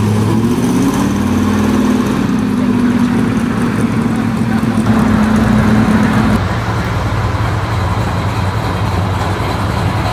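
V8 engine of a 1955 Chevrolet gasser pulling away, rising in pitch over the first couple of seconds and then holding steady. About six seconds in it gives way to a lower, steady engine rumble from a late-1950s Chevrolet pickup driving slowly.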